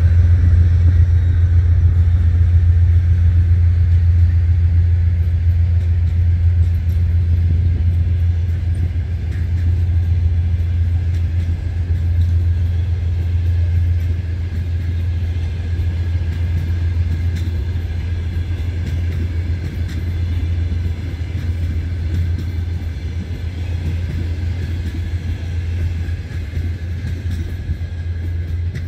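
Passenger train hauled by a pair of ST40s diesel locomotives, passing and pulling away: a steady low rumble that slowly fades.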